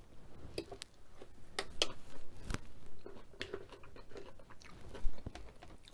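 Close-miked chewing: a person chewing a mouthful of food with the lips closed, a run of short wet clicks and smacks, a few of them louder.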